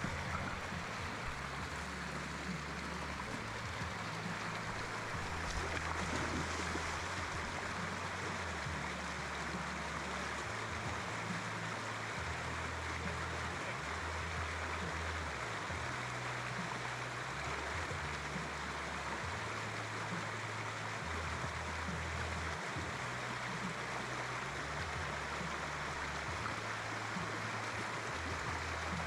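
Steady rush of flowing river water, even and unbroken, with an uneven low rumble underneath that comes and goes.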